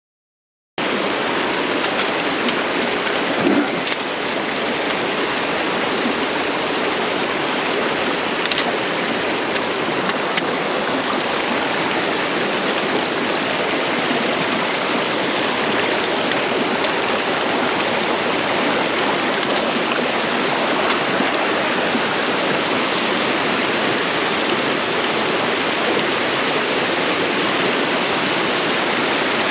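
Creek water rushing and cascading over rock, a steady even sound that cuts in suddenly about a second in after silence. A brief thump comes a few seconds later.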